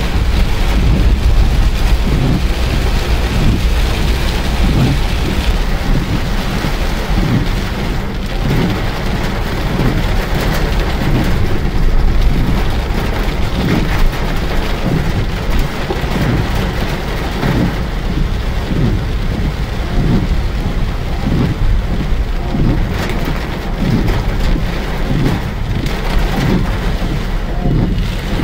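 Heavy rain pouring down in a dense, steady hiss, over a deep continuous rumble.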